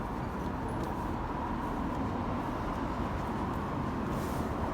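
Steady low background rumble and hum with no distinct events, and a brief faint rustle about four seconds in.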